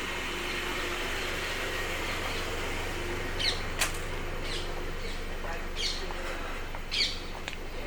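A bird giving short, repeated falling chirps, about half a dozen from a little before halfway through. They sound over a steady rushing noise with a low rumble.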